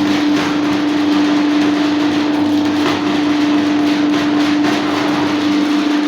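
Electric drain-cleaning machine running steadily with a constant motor hum, its cable turning in a blocked drain, with a few short rattling knocks.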